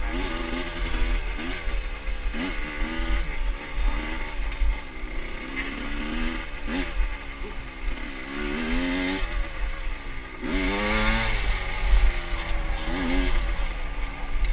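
Motorcycle engine under way, its pitch climbing and dropping again and again as the throttle is worked, with one bigger rev and fall about ten seconds in. A heavy low rumble runs underneath.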